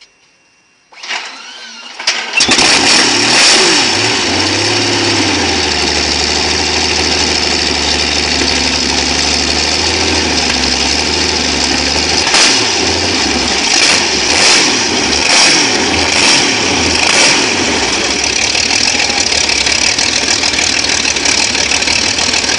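An engine cranks briefly and starts about two seconds in, then runs steadily. It swells in loudness a few times near the middle.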